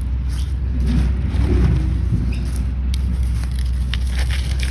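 Steady low rumble with a few short clicks and scrapes from digging and handling soil while recovering a detector target.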